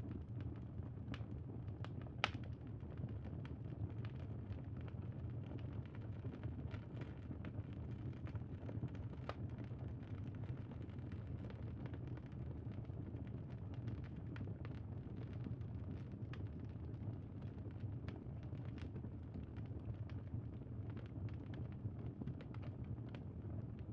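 Wood fire crackling, a steady low rumble with scattered sharp pops throughout and one louder pop about two seconds in.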